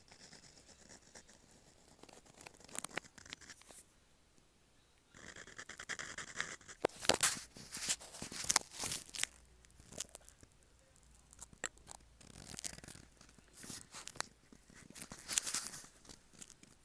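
Metal dip pen nib scratching across paper in short strokes, with clusters of quick repeated scratches and brief pauses between them.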